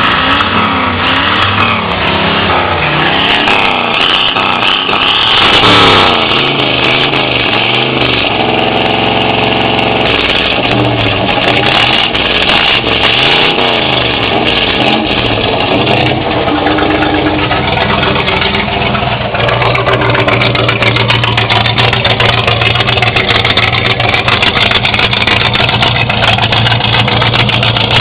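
1967 Chevrolet C10 pickup's engine running through Cherry Bomb mufflers, revved up and down repeatedly for the first half, loudest about six seconds in, then settling into a steady idle.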